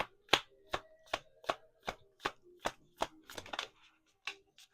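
Tarot cards being shuffled by hand: a steady run of crisp slaps, about two or three a second, that stops just before the end.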